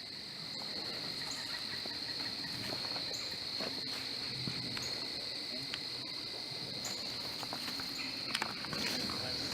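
A steady, high-pitched chorus of crickets, with a few scattered clicks and scuffs of footsteps crossing creek stones, more of them near the end.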